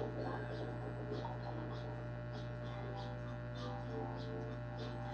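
Steady electrical mains hum, with soft hisses repeating about every 0.6 seconds.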